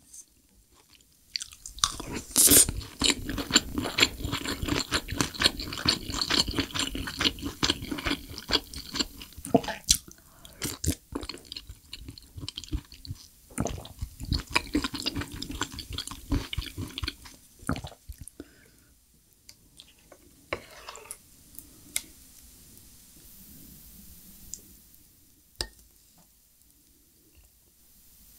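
Close-miked chewing of a mouthful of mapo tofu and shrimp fried rice: a dense run of mouth clicks for about the first sixteen seconds, then quieter and sparser.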